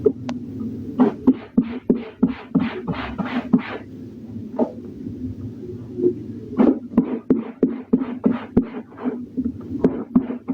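Laundry being washed by hand: quick runs of rubbing and scrubbing strokes on wet fabric, about three or four a second, with a short lull in the middle.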